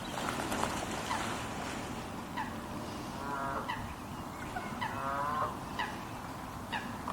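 Wild birds calling in a marsh: two rich, nasal calls, each about half a second long, a little after three seconds and again around five seconds in, among scattered short high chirps from smaller birds.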